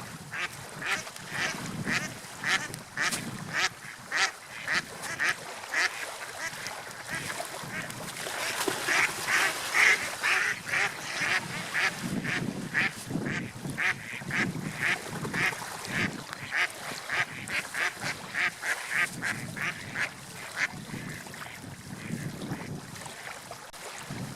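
Birds calling in a fast series, about two calls a second, louder through the middle, over a low wash of water.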